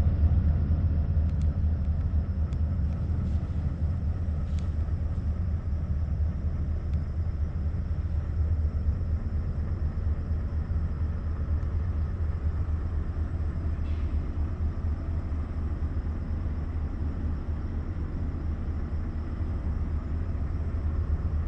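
Scania truck's V8 engine running steadily: a constant deep, low rumble.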